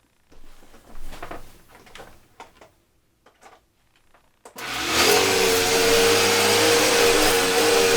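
A few light clicks and knocks, then about four and a half seconds in the Eureka vacuum cleaner is switched on: its motor spins up within half a second and settles into a steady, loud run with a clear whine.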